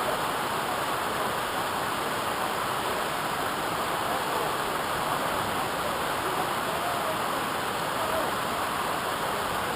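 Steady rush of falling water from a waterfall, an even unbroken noise.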